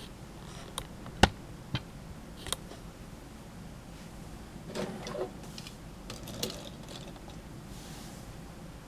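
A few sharp clicks and knocks, the loudest about a second in, then brief bursts of handling and rustling noise around five and six seconds in.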